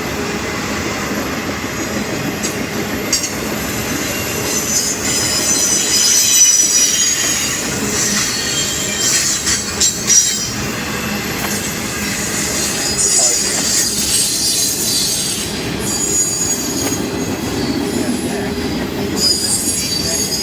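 A freight train rolling past at close range: steady rumble of the cars, with high squealing from the wheels on the rail that rises and fades repeatedly, and a few sharp knocks.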